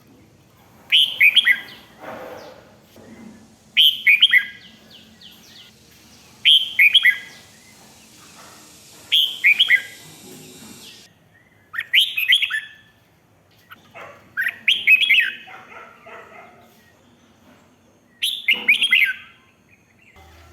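Red-whiskered bulbul singing: short phrases of quick, falling, whistled notes, seven of them, one every two to three seconds.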